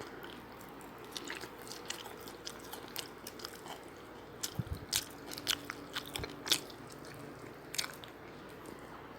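A person biting and chewing tilapia fish and rice, with scattered sharp mouth clicks that bunch up and are loudest about two-thirds of the way through.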